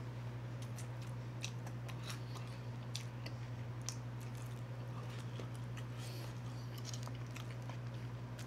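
A person biting and chewing bone-in chicken wings, with irregular sharp smacks and crunches, over a steady low hum.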